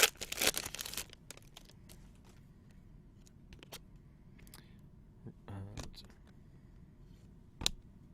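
Foil trading-card pack wrapper crinkling as it is torn open for about the first second, then soft clicks and taps of cards being handled, with one sharp click near the end.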